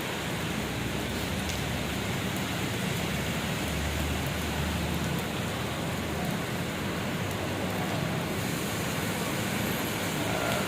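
Heavy rain pouring down in a steady, dense hiss, with a low rumble swelling about four seconds in and fading again a couple of seconds later.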